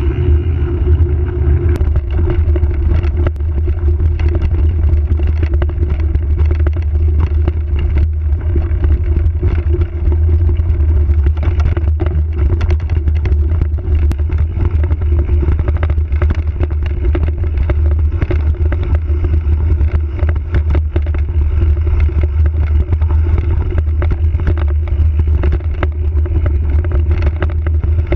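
Giant Trance X 0 29er mountain bike being ridden along a rough trail: a steady low rumble of tyres and wind, with many sharp clicks and rattles from the bike jolting over rocks and roots.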